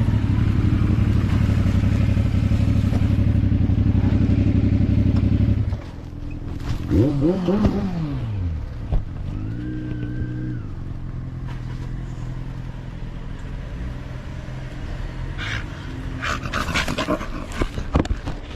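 Motorcycle engine running steadily, then dropping sharply in level about six seconds in. It revs up and down a couple of times before settling into a lower, steady running sound, with sharp clattering near the end.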